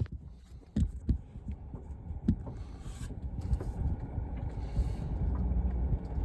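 Four-wheel-drive pickup truck running at low speed over rough ground: a steady low rumble, with a few knocks and thumps in the first couple of seconds.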